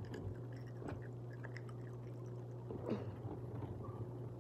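A child eating close to the microphone: soft wet chewing and mouth sounds with a few small clicks, over a steady low hum.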